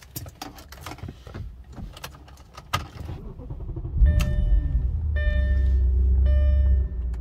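Keys jingle and click in the ignition, then the 2007 Audi RS4's naturally aspirated 4.2-litre V8 is cranked and catches about four seconds in with a rev flare. It settles into a steady fast idle that drops a step near the end. A dashboard warning chime beeps about once a second once the engine is running.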